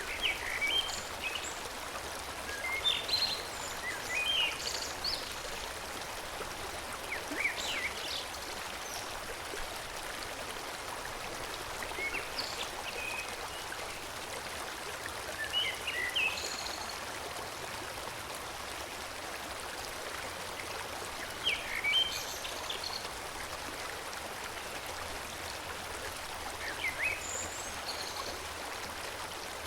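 Forest stream flowing steadily, with songbirds giving short chirping phrases every few seconds.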